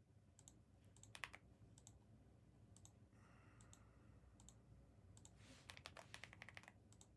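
Faint typing on a computer keyboard, in short bursts of rapid clicks with pauses between.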